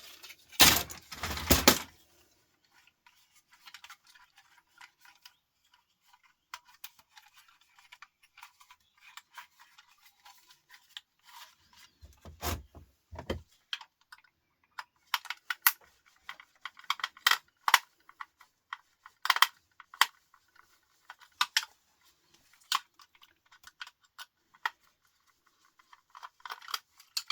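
Small metal parts and screws clinking and clicking on a work surface while electronics are taken apart by hand for scrap. There is a loud rattle in the first two seconds, a heavier clatter about twelve seconds in, and then a run of sharp irregular clicks.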